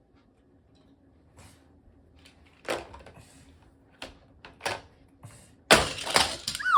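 Toy plastic Hot Wheels monster truck and track: a few scattered plastic clicks and knocks, then a loud rattling clatter as a truck is launched through the plastic loop track and crashes, ending in a short falling squeal.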